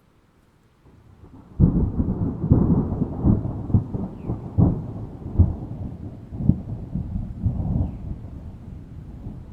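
A thunderclap breaking suddenly about a second and a half in, then rolling rumble with repeated cracks that slowly eases off, over rain.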